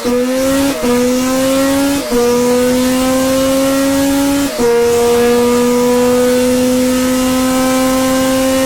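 2014 Formula 1 1.6-litre V6 turbo hybrid engine accelerating hard through the gears: four quick upshifts in the first five seconds, the pitch dropping at each change and then climbing slowly, with a long pull in the last gear.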